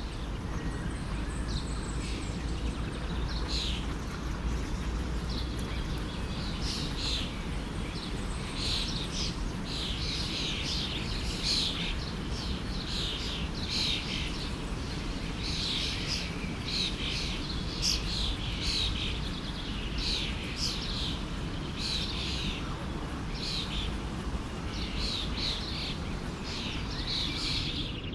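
Songbirds chirping in quick, repeated short calls over the steady rush of a flowing stream.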